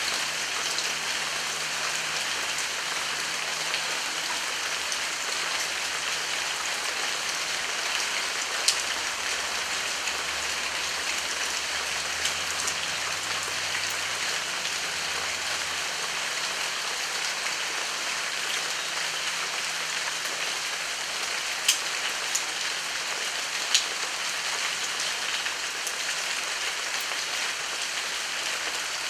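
Heavy rain falling steadily in an even hiss, with a few louder single drops striking now and then.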